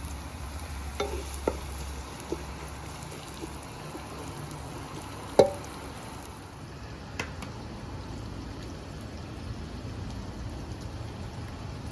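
Cooking sounds: a steady hiss with a few light knocks of utensils and cookware, and one louder ringing knock about five seconds in.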